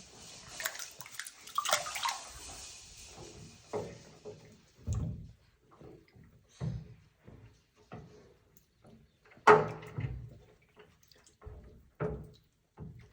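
Water splashing in a bathtub: a rush of splashing in the first few seconds, then scattered separate splashes and knocks, the loudest about nine and a half seconds in.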